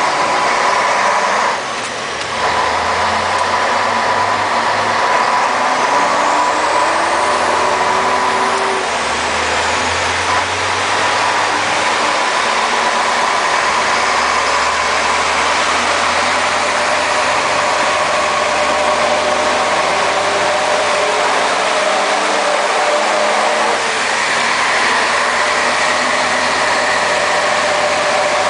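Scania 110 Super truck's diesel engine running under way. There is a brief dip in level about two seconds in, and the revs climb a few seconds later.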